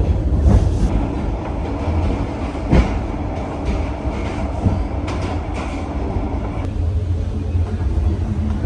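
Sleeper train carriage in motion: a steady low rumble with a few sharp knocks, typical of wheels running over rail joints.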